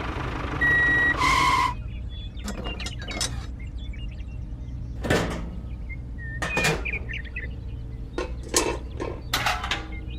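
A miniature model tractor's electronic beeper sounds once, about a second in, followed by a steady low motor hum with scattered clicks and knocks.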